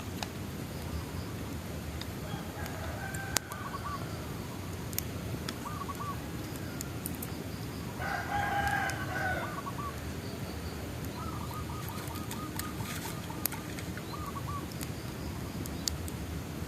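Bonfire crackling steadily, with a few sharp pops. About eight seconds in comes one louder bird call lasting over a second, and short chirping calls repeat throughout.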